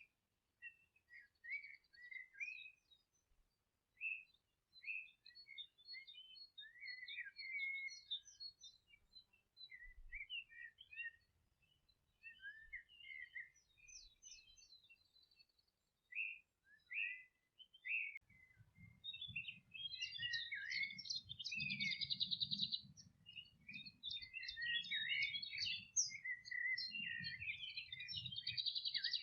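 Several songbirds chirping and singing in short phrases, with scattered calls at first and a busier, louder chorus with fast buzzy trills from about two-thirds of the way in. A low rumble sits under the later part.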